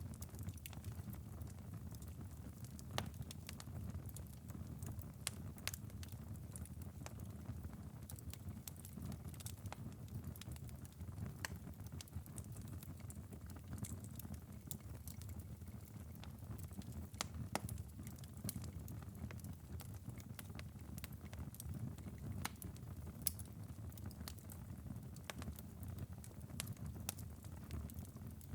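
Wood-burning fireplace ember bed crackling: scattered sharp pops and ticks at irregular intervals over a steady low rumble of the burning coals.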